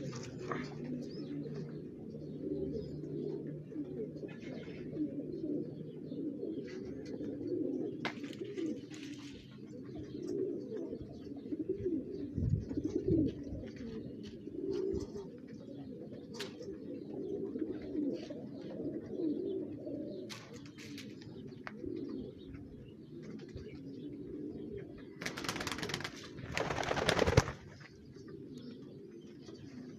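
Homing pigeons cooing steadily, several voices overlapping, with scattered light clicks. About 25 seconds in, a loud rustling noise lasts around two seconds.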